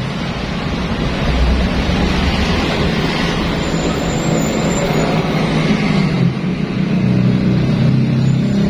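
Small motor-scooter engine running steadily, its sound swelling slightly about a second in and again near the end.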